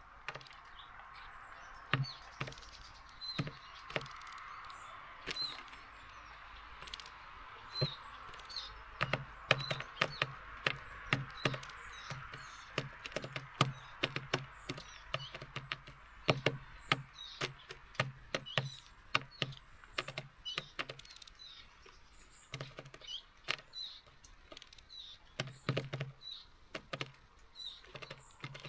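Birds tapping and knocking at a seed feeder, mostly a nuthatch pecking at seeds, in quick, irregular runs with many dull thuds. Short high chirps from small birds come through now and then, over a soft hiss that fades out about halfway through.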